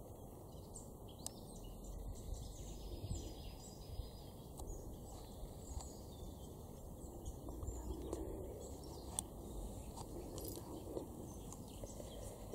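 Faint outdoor background with scattered bird chirps.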